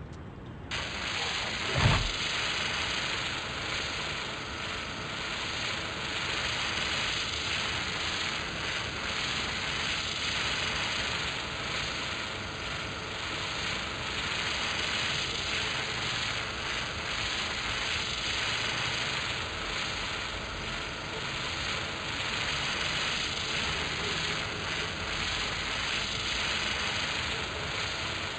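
An engine running steadily, coming in about a second in, with a single knock a second later.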